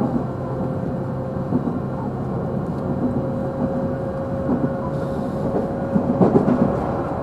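JR Central 311-series electric train running, heard from inside the KuMoHa 311 motor car: steady rolling rumble with a steady motor whine. A short burst of clatter comes about six seconds in.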